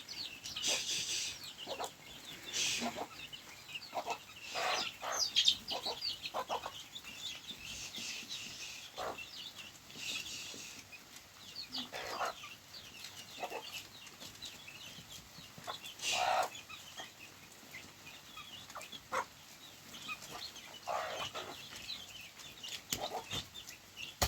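Chickens clucking, with short calls scattered irregularly throughout.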